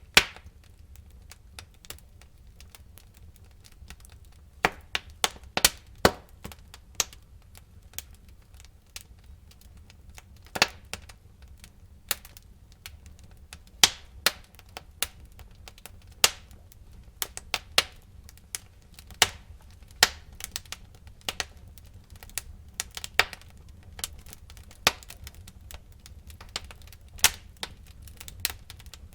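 Burning wood in a fireplace crackling and popping: irregular sharp cracks, sometimes several close together, over a faint low rumble of the fire.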